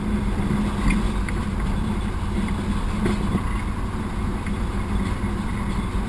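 YaMZ-236 V6 diesel of a TU6A narrow-gauge locomotive running steadily under load in first gear at low speed, an even drone with a few faint ticks.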